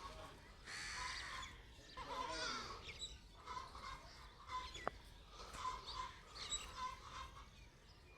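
Birds calling and chirping in many short, overlapping calls, with one sharp click about halfway through.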